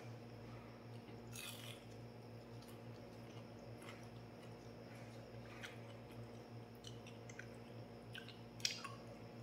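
A person chewing food and eating with the fingers, faint mouth and finger clicks on and off, the clearest about a second and a half in and near the end. A faint steady low hum runs underneath.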